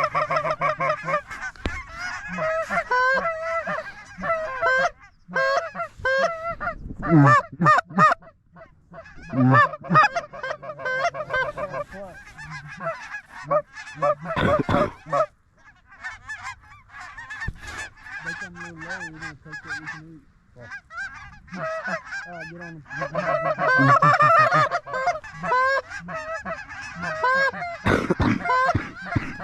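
Geese honking and clucking: many rapid, overlapping honks that come in bursts with short lulls between them.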